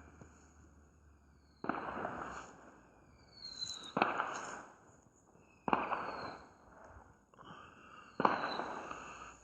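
Aerial fireworks going off: four loud bangs a couple of seconds apart, each followed by a rumbling echo that dies away, with a short whistle just before some of them.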